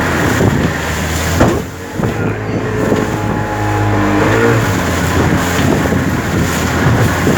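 Small boat's motor running steadily under way, with a brief dip in level about one and a half seconds in.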